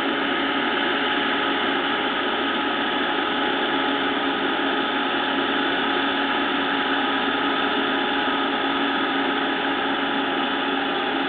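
Combine harvester running steadily at work in a rice field: an even mechanical drone with a constant hum, unchanging throughout.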